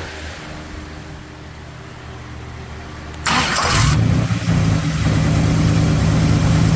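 A 440 big-block V8 in a 1973 Dodge Charger running while its ignition timing is set. About three seconds in there is a short, loud rush of noise, after which the engine runs noticeably louder and steady.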